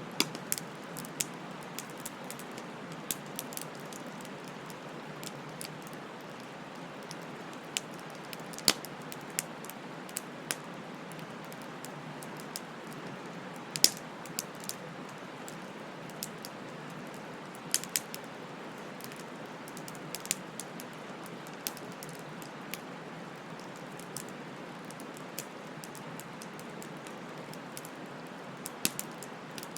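Bonfire burning: a steady soft hiss with irregular sharp crackles and pops, the loudest snap about fourteen seconds in.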